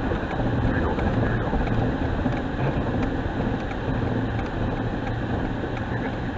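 Steady engine and tyre noise of a car driving at speed, heard inside its cabin.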